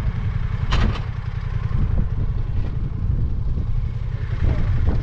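Touring motorcycle engines idling with a low, lumpy pulse, with one brief sharp noise a little under a second in.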